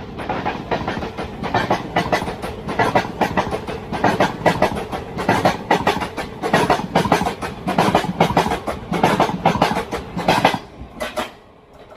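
A train passing close by, its wheels clattering rapidly over the rail joints. The clatter starts suddenly and cuts off about eleven seconds in, as the last coach goes by.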